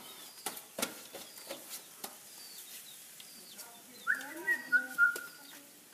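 Small birds chirping, short high chirps repeating about twice a second, with a few sharp knocks in the first two seconds. About four seconds in, a louder high whistle-like call holds for about a second, stepping down in pitch.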